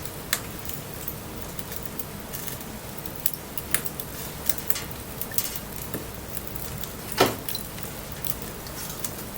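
Wood fire crackling, with scattered sharp pops, the loudest about seven seconds in, over the steady hiss of light rain.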